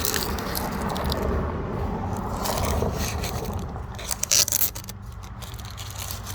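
Masking tape being peeled and crumpled off painted lawn tractor parts: a continuous scraping, crinkling rustle with a few sharp crackles about four seconds in.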